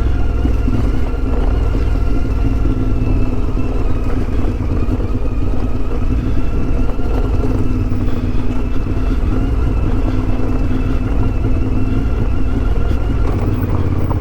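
CFMOTO 450MT adventure motorcycle's parallel-twin engine running at a steady, even pace under way on a dirt trail, with a heavy low rumble underneath.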